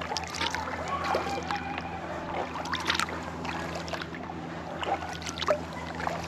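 Kayak paddle strokes: the blades dipping into the lake and water dripping off them in several short splashes, over a steady low hum.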